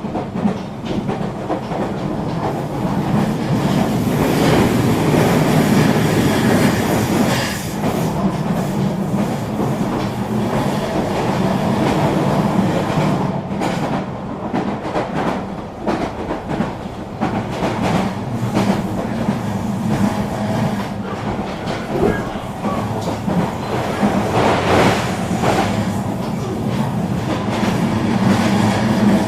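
Eurobahn regional electric train running along the track: a steady rolling rumble with a low hum, and scattered clicks as the wheels pass over rail joints and points.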